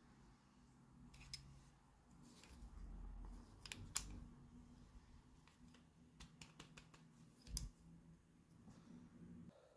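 Small plastic toy pieces being handled: scattered light clicks and taps, two of them sharper about four seconds in and again near the end.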